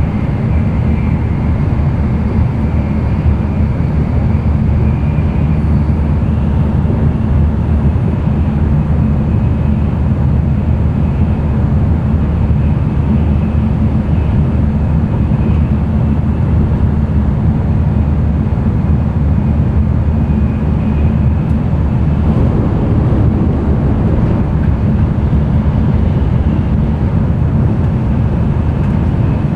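Running noise of an N700-series Shinkansen at speed, heard inside the passenger cabin: a steady, loud low rumble with a hiss of rushing air and wheels on rail, growing slightly a little past two-thirds through.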